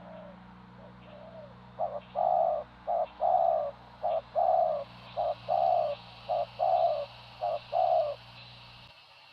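Spotted dove cooing. A few faint coos come first, then about two seconds in a loud run of six paired calls, each a short note followed by a longer one, which stops about eight seconds in.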